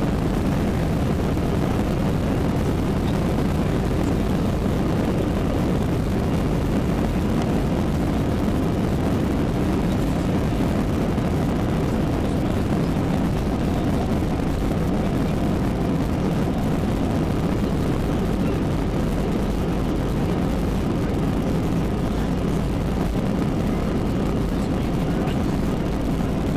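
Airbus A320 jet engines running at take-off power: a loud, steady, unbroken roar with a heavy low rumble.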